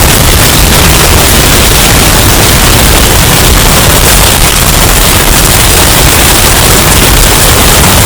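Hurricane wind sound effect, bass-boosted until it distorts: a steady, very loud rush of noise, heaviest in the bass, with no let-up.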